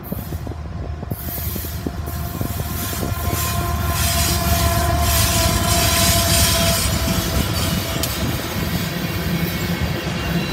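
Freight train passing close by: BNSF diesel locomotives rumble past, followed by tank cars with steel wheels rolling over the rails. The sound grows louder as the locomotives come alongside, and a steady ringing tone holds through the middle seconds.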